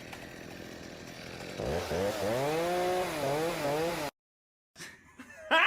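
A small motor revving up and down several times with a whining pitch after a stretch of hiss, then cutting off abruptly.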